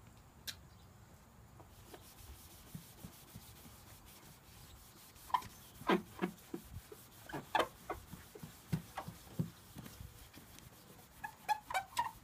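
Cloth wiping sprayed wax over a plastic car headlight lens: after a quiet stretch, short irregular rubbing strokes start about five seconds in and go on to the end.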